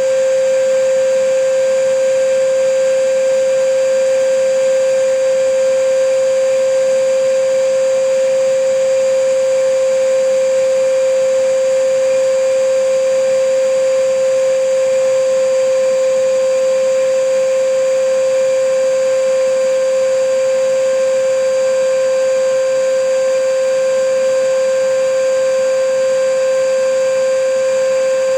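Vacuum cleaner running steadily: an even motor whine, one strong unchanging tone over a hiss, with no change in speed.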